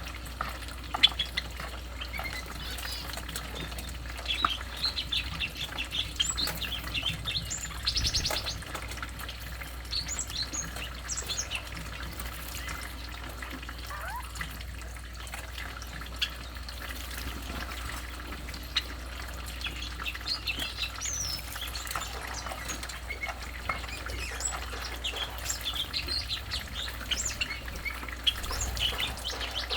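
Stripe-throated bulbul chirping in short, scattered calls over a low steady background rumble.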